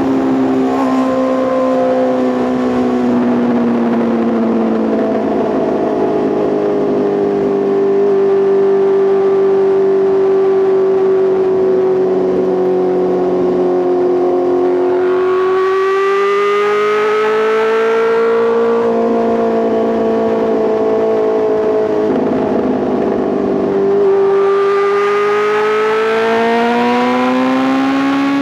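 Exhaust note of a Honda CBR650R's inline-four through an Arrow Race Pro titanium full system while riding. The revs hold steady, then the note dips and climbs twice, about halfway through and again near the end.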